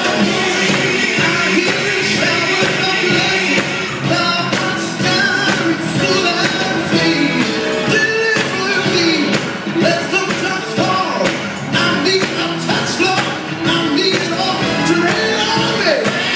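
Live contemporary worship band playing a full rock-style arrangement with drums, with singing over it.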